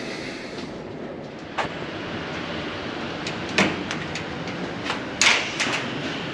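Storm wind blowing steadily, with several sharp knocks and rattles over it; the loudest comes about five seconds in.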